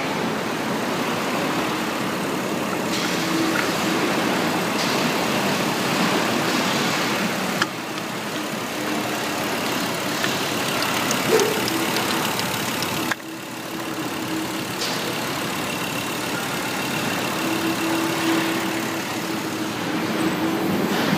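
Volvo B5254S 2.5-litre five-cylinder petrol engine running at a steady idle, with a dense mechanical clatter.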